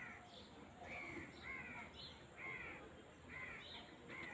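Birds calling over and over in short calls, about two a second and each dipping slightly in pitch, against a low steady outdoor background.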